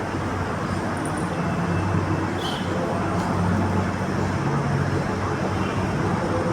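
Steady road-traffic noise with a low engine hum and a few faint, short high chirps.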